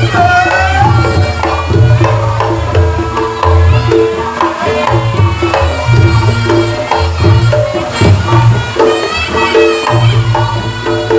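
Reog Ponorogo gamelan playing: kendang drums beating a driving, steady rhythm under repeating pitched gong-chime notes, with a reedy slompret shawm sliding in pitch near the start.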